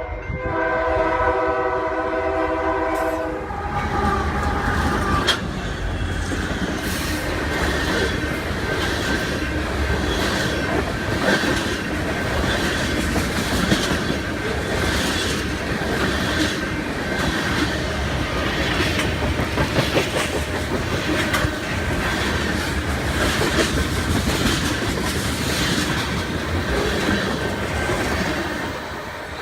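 Train horn sounding a chord for about three seconds, then the train running past with a steady rumble and a regular clickety-clack of its wheels on the rails.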